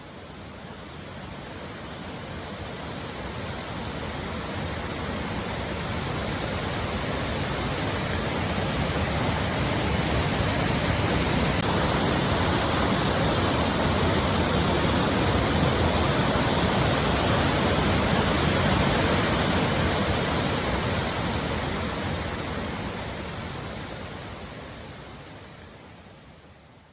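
Waterfall rushing: a steady, even roar of falling water that swells in slowly and fades out near the end.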